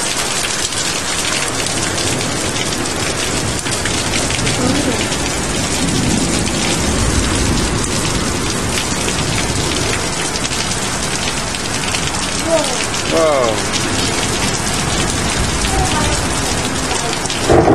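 Heavy rain pouring down in a thunderstorm, a dense steady hiss, with a low rumble of thunder around the middle.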